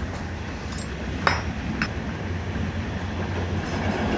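Steady low rumble of a moving train heard inside a dining carriage, with two sharp clinks about half a second apart a little over a second in.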